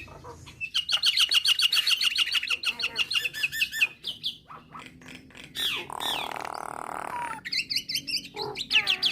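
Nias hill myna calling: a fast run of repeated chirps for about three seconds, then varied whistled notes, a harsh rasping call about six seconds in, and more quick chirps near the end.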